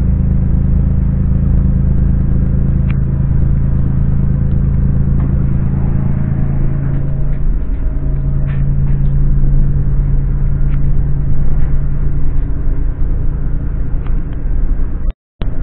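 Running noise of a moving intercity train heard from inside the carriage: a steady low rumble with a deep hum that shifts in pitch about halfway through, and a few faint clicks.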